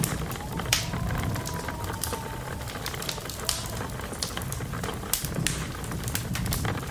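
Wood fire crackling and popping in a fireplace over a steady low rumble, with a faint whistle of wind that rises and falls in the first half.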